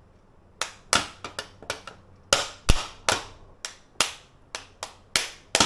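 Cooked mud crab shell being cracked and pulled apart by hand: a quick, irregular run of sharp cracks and snaps, the loudest with a dull knock about two and a half seconds in.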